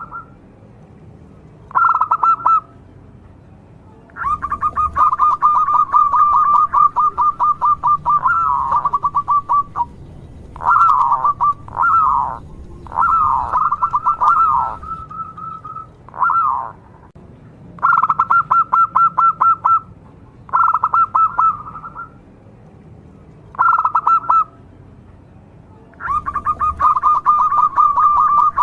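Zebra dove (perkutut) cooing in rapid stuttering bouts: quick pulsed notes strung into phrases from under a second to about six seconds long, with short pauses between them.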